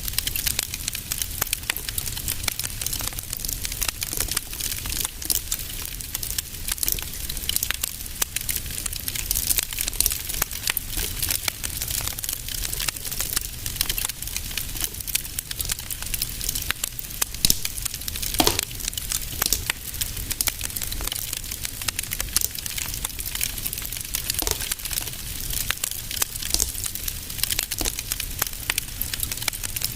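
Wood fire crackling in a fireplace: a dense, irregular stream of small crackles over a low steady rumble, with a few sharper pops, the strongest a little past halfway.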